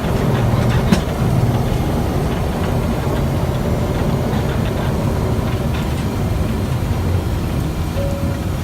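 Steady low rumble of a private jet's engines and its roll along the runway, heard from inside the cockpit as the aircraft slows after touchdown.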